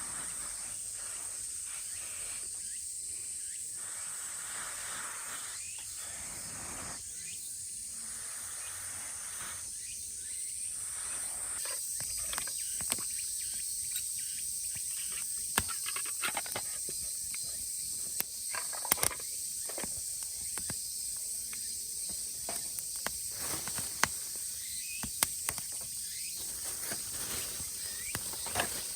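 Cicadas droning as a steady high chorus, with scattered sharp clicks and knocks from about midway.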